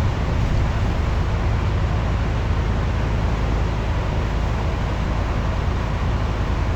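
Scania N230UD double-decker bus's five-cylinder diesel engine running under steady load, a constant low rumble with road and running noise over it.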